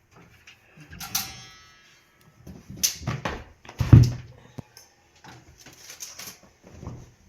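A short high creak about a second in, then a run of knocks and bumps, the loudest about four seconds in, with smaller clatters after: objects and possibly a door being handled in a small room.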